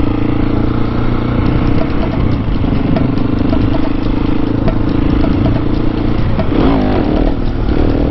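Husqvarna 701 Supermoto's single-cylinder engine running at a steady speed, its pitch wavering briefly about two-thirds of the way through.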